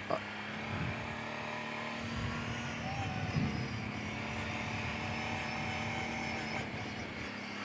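Kawasaki Brute Force 750 ATV's V-twin engine running at a steady, low speed.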